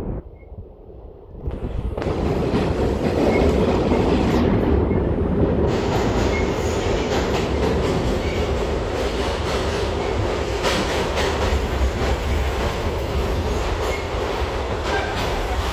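R62 subway car running at speed: a loud, steady rumble of wheels on rail with a few sharp rail-joint clicks. After a brief quieter moment, the noise comes up abruptly about a second and a half in.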